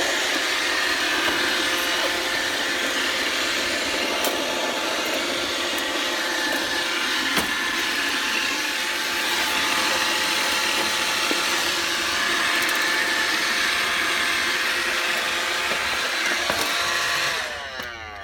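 iRobot Roomba robot vacuum running: a steady motor and brush whir with a few light clicks. It winds down and cuts out near the end as the Roomba stops on an error.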